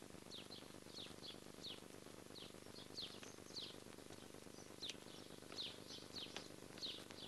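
Faint bird chirps: short falling notes, scattered irregularly several times a second, over a low steady background noise.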